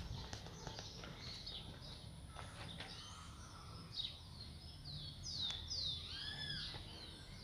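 Birds chirping: a run of short, quick chirps, most of them in the second half, some sweeping down and some arching up and over. Beneath them runs a faint, steady low background rumble.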